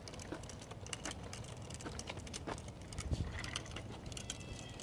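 A child's bicycle rolling along a sidewalk: irregular light clicks and rattles over a low rumble.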